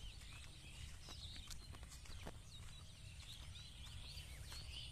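Faint rural outdoor ambience: small birds chirping and twittering, over a low steady rumble, with a few light clicks.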